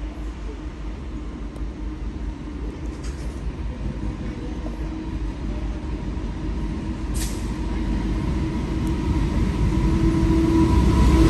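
Electric passenger train drawing nearer on the track, its rumble and motor whine growing steadily louder, with a short hiss about seven seconds in.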